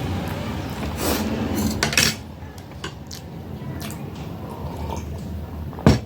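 Cutlery clinking and scraping against a plate of instant noodles during eating, a few separate clicks, with one sharp, loudest clink near the end.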